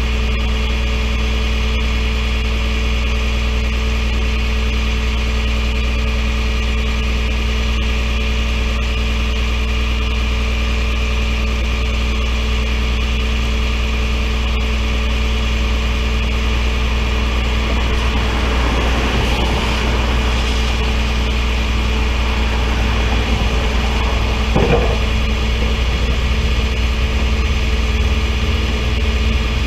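A vehicle engine idling steadily, most likely the tow truck's. Past the middle a rushing sound swells and fades, and shortly after there is a short knock.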